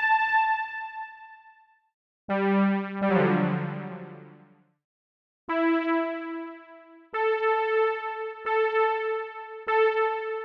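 Synthesized electric-piano music: a note fading out, then a low chord about two seconds in, followed by single notes struck roughly every second or so, each ringing and dying away with short silent gaps between.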